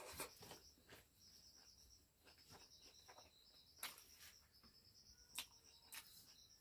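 Faint insect chirping in repeated short pulsed trills, with a few sharp clicks, one about four seconds in and two more near the end.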